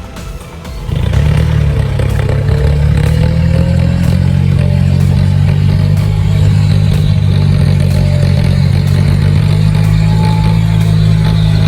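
John Deere 5055E tractor's diesel engine running steadily, its low drone coming up loud about a second in.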